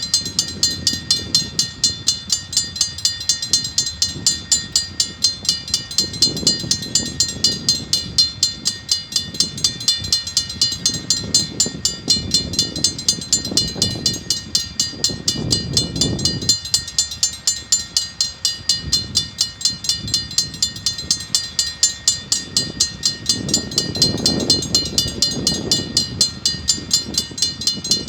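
Level-crossing warning bell ringing in a steady, rapid rhythm of about three strikes a second, over the low rumble of a diesel-hauled train's wagons rolling through the crossing, swelling and fading as they pass.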